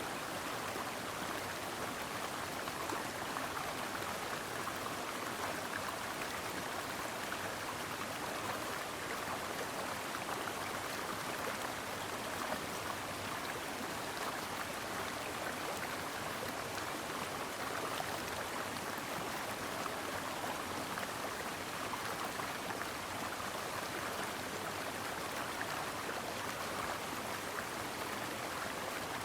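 Stream water babbling and splashing over rocks, a steady, even rush of running water.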